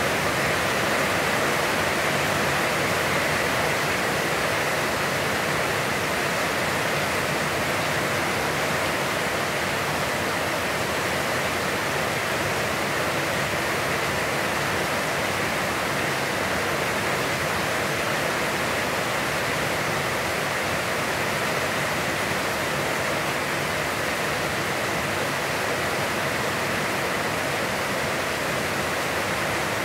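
Heavy, constant rain falling, a steady even hiss.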